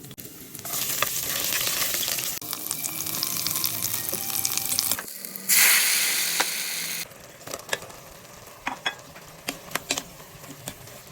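Food sizzling in hot oil in a frying pan, starting about a second in, louder near the middle and stopping abruptly. Scattered sharp clicks and taps follow.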